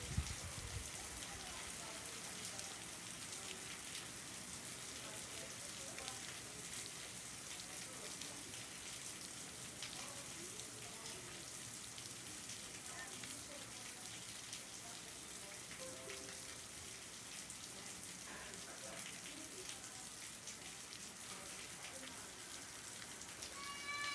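Steady rain falling, an even hiss, with faint children's voices in the background now and then.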